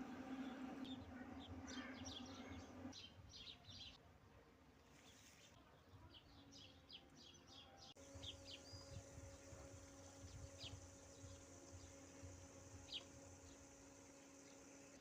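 Faint outdoor ambience: small birds chirping in short scattered calls over a steady low hum that drops away about three seconds in and returns about halfway through.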